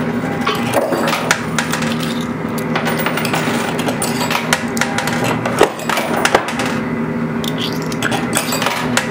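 Quarters dropping and clinking on a coin pusher machine, many small metallic clicks over a steady hum, with a few louder clacks about five and a half and six seconds in.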